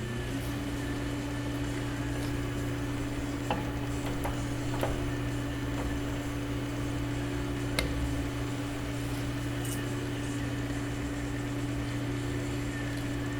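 Welding machine running with a steady hum that starts just after the beginning, with a few faint clicks.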